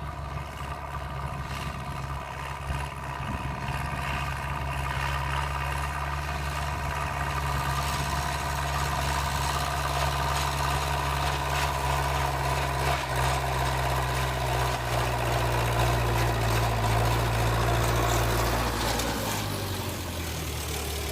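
Zetor 6340 tractor's four-cylinder diesel engine running steadily, growing slowly louder, then its engine note drops about nineteen seconds in.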